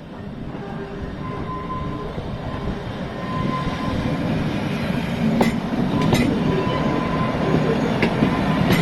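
Train approaching and growing steadily louder, with a faint steady whine. From about five seconds in come several sharp clicks from the wheels on the track.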